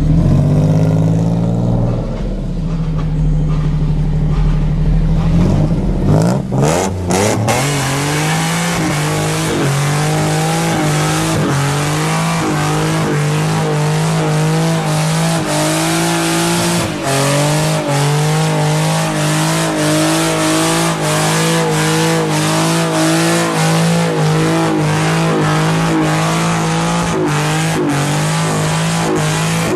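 Car engine running steadily, then revved up about six seconds in and held at high revs for a burnout, the spinning tyres adding a steady screech over the engine. The revs drop briefly once near the middle and climb back.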